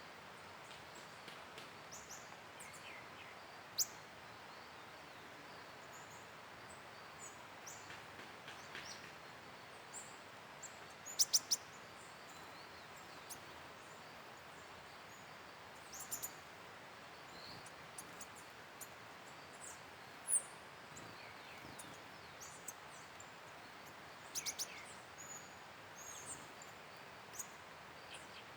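Wild forest birds calling with short, high chirps and sharp notes scattered irregularly, over a steady background hiss. A quick run of three loud sharp notes comes a little before the middle, and a few louder single notes stand out elsewhere.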